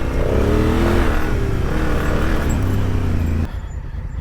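Adventure motorcycle engine revving up and down while riding, with wind noise, then dropping off abruptly to a quieter low idle near the end.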